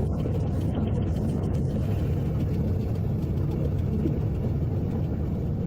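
Jet airliner engine noise: a steady low rumble.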